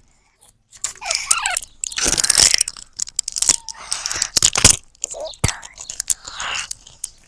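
Parrot making raspy, crunching and clicking noises: a run of hissy rasps and sharp beak-like clicks with a few short squeaky chirps, after a brief pause at the start.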